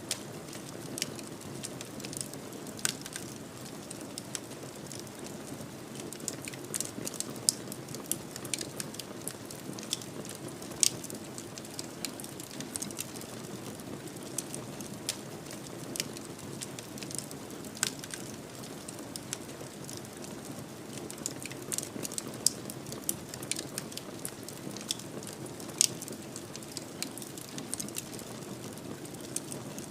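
Wood fire burning in a fireplace: irregular sharp crackles and pops over a steady hiss of flames.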